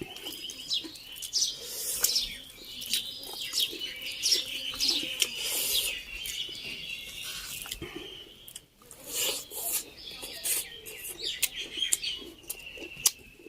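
Small birds chirping, a busy run of short, quick chirps that slide down in pitch, with scattered ticks among them.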